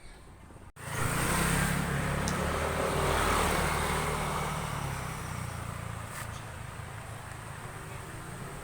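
A motor vehicle's engine passing close by, then fading away over several seconds. It starts abruptly about a second in.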